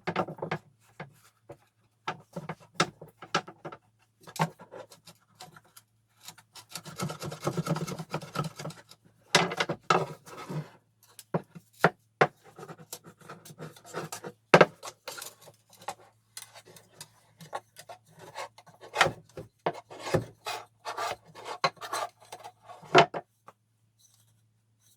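Hand-worked wood being rubbed and scraped in irregular short strokes, with scattered sharp knocks and clicks; a longer stretch of steady rubbing comes about seven seconds in, and the work stops about two seconds before the end.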